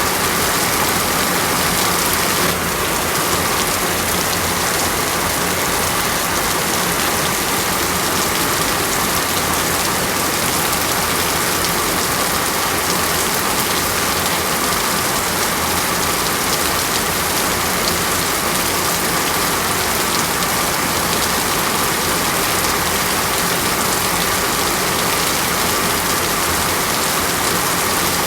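Steady rain: a dense, even hiss of rainfall with no breaks, dipping slightly in level about two and a half seconds in.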